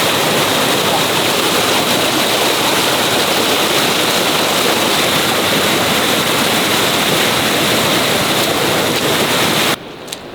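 Steady, loud rushing water that cuts off suddenly near the end.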